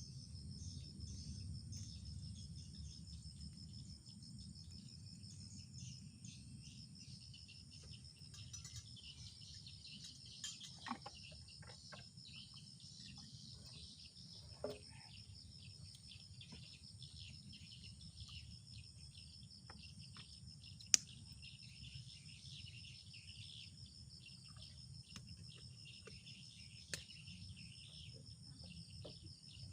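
Forest ambience: a steady, high-pitched pulsing insect trill with other insects and faint bird chirps above a low rumble. A few sharp clicks break in, the loudest about two-thirds of the way through.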